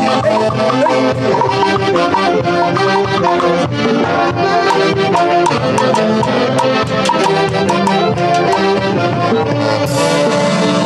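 Live Andean orquesta típica playing a festive dance tune: saxophones and other wind instruments over a steady beat.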